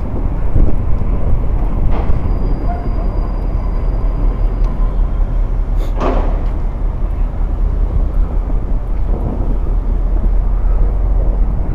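Steady low rumble of outdoor city noise, with one brief sharp sound about six seconds in.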